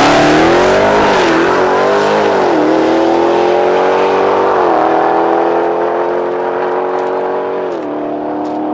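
Dodge Challenger SRT Demon's supercharged 6.2-litre Hemi V8 at full throttle on a drag-strip pass, its pitch climbing and then dropping at each of four upshifts, slowly fading as the car pulls away.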